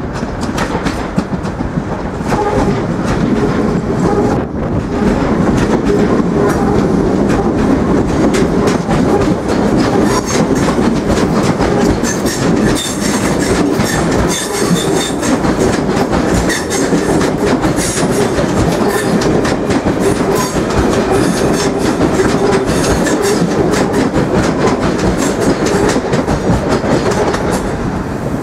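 Irish Rail 8520 class DART electric multiple-unit trains running through the station, a loud steady rumble with wheels clacking rapidly over rail joints and points. A faint high wheel squeal comes in through the middle.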